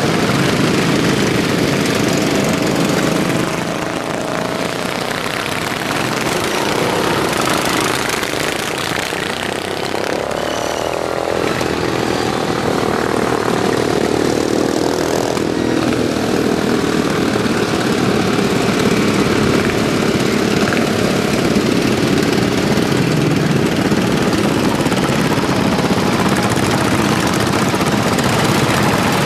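Racing lawn mowers' single-cylinder OHV engines running hard, their pitch rising and falling as they pass.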